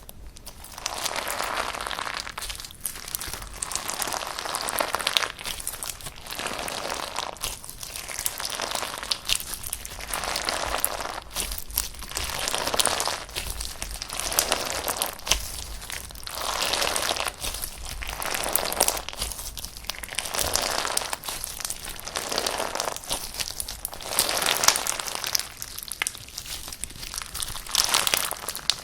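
Slime being pressed and worked by hand, crackling and popping with many small clicks, in swells about every two seconds.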